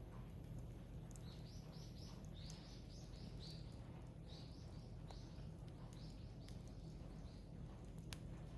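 A bird calling a quick run of short chirps, about two or three a second, over a steady low background. A single sharp crack from the burning firewood comes near the end.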